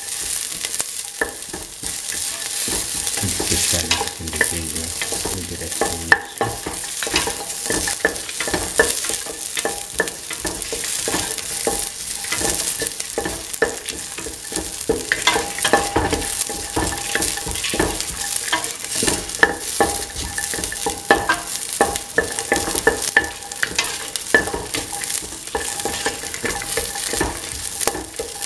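Chopped shallots and dried red chillies sizzling in hot oil in a metal pot, stirred with a spoon that scrapes and taps against the pot over and over.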